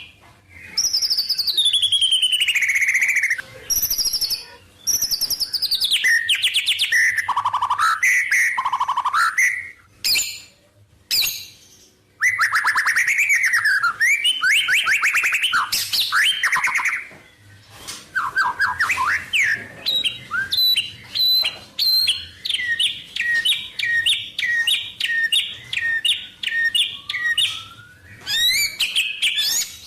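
White-rumped shama singing a long, varied song of loud whistles, sweeping glides and fast trills, with mimicked calls of other birds. There are short pauses between phrases, and in the latter half it repeats one short note over and over in a quick run.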